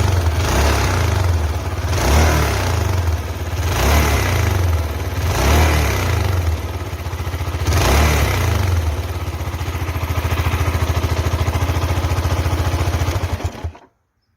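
Honda CB400SS motorcycle's single-cylinder engine through its exhaust, idling and blipped by the throttle five times in quick revs over the first eight seconds, then idling steadily. The sound stops abruptly near the end.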